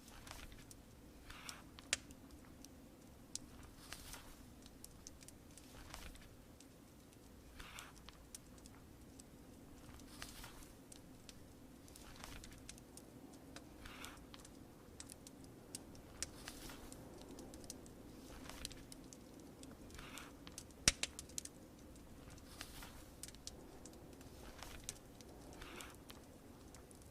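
Fire crackling: scattered sharp pops and short soft bursts over a faint steady low background, with the loudest pop about twenty-one seconds in.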